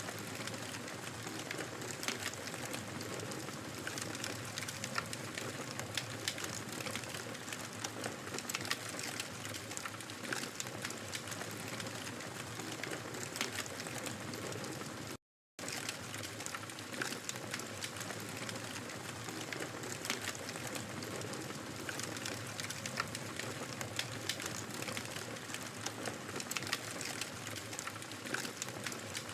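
Wood fire crackling in a fireplace: a steady hiss with frequent sharp pops and snaps. The sound cuts out completely for a split second about halfway through.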